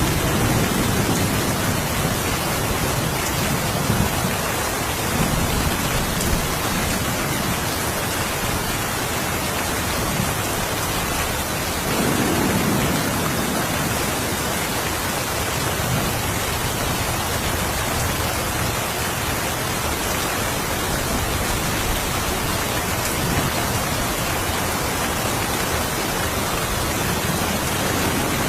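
Steady rain falling, an even hiss throughout. Low rumbles of distant thunder swell right at the start and again about halfway through.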